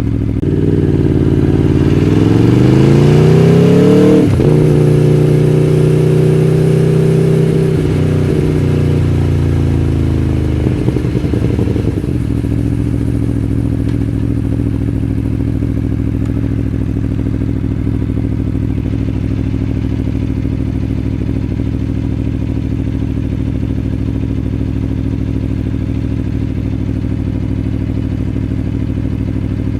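Aprilia Tuono V4 1100 Factory's V4 engine pulling away, its pitch rising for about three seconds with a gear change about four seconds in. It holds speed briefly, winds down between about eight and twelve seconds, then settles to a steady idle for the second half.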